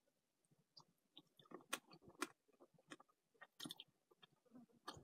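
Faint close-up chewing of a spoonful of stewed mouse, with scattered sharp crunches and wet mouth clicks as the small bones are bitten through.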